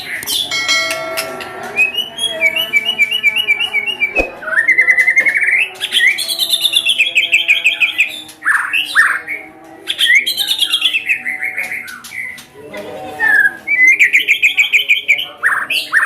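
White-rumped shama (murai batu) song: a run of fast, rapidly repeated chirping trill phrases, the sharp 'shot' bursts of a lure recording, with short breaks between phrases. A single sharp click about four seconds in.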